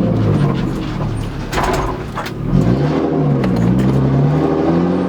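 Straight-piped BMW E36 exhaust with no muffler, the engine note rising and falling with the throttle. It eases off about two seconds in with a brief crackle, then pulls up in pitch again.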